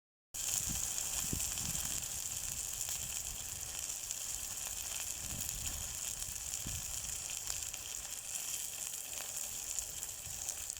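Meat sizzling in a hot frying pan: a steady frying hiss with a few small pops.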